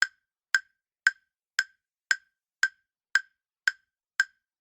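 Countdown timer sound effect: sharp, evenly spaced ticks, about two a second, nine in all.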